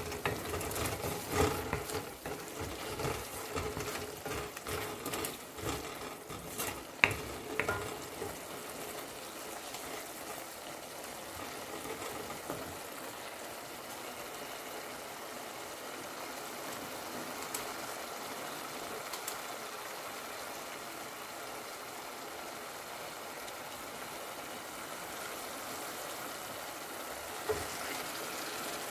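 Dried shrimp being fried down in a spice paste in an aluminium karahi. A wooden spoon scrapes and knocks against the pan for the first several seconds, then the masala sizzles and bubbles steadily.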